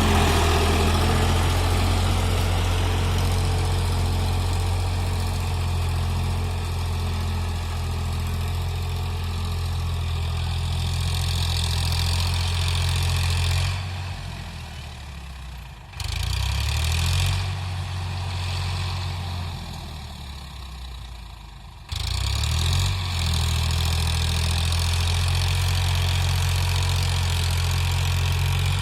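Eicher 551 tractor's diesel engine running steadily. Twice in the middle the sound fades and then abruptly comes back up, with a brief change in engine pitch each time.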